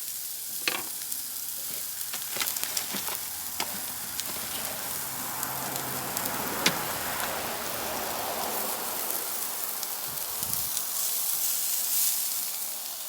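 Frozen vegetarian chicken strips frying in a pan with a steady sizzle, broken by a few sharp clicks, the loudest about halfway through.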